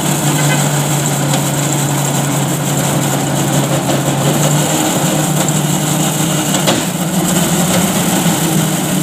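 A heavy truck's engine running steadily, its pitch stepping up slightly about five seconds in.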